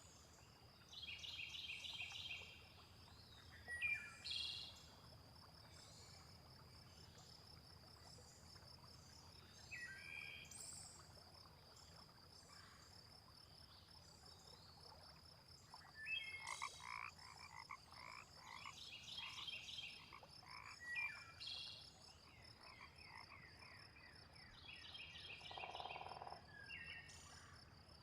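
Frogs croaking in short bursts of rapid repeated pulses, about a second in, again in the middle and near the end, with scattered bird chirps over a steady high trill. Faint, a night-time wetland ambience.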